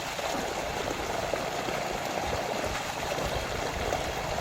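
Water running steadily in a farm water channel, an even rushing without breaks.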